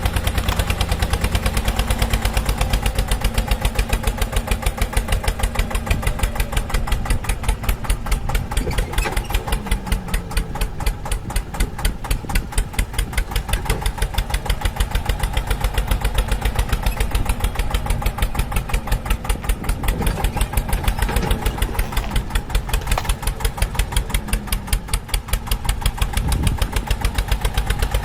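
Tractor engine running steadily with a rapid, even beat of pulses.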